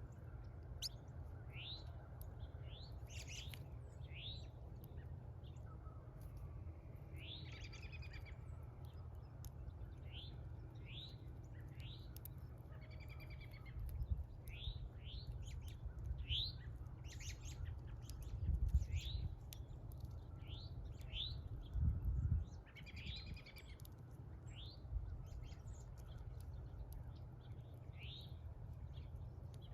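Small birds chirping: short, sharp chirps repeating about once a second, now and then two or three notes together. Underneath is a steady low rumble that swells briefly a few times in the middle.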